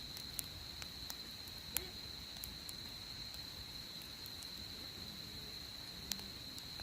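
Wood campfire crackling, with scattered sharp pops about once or twice a second over a steady high-pitched trill.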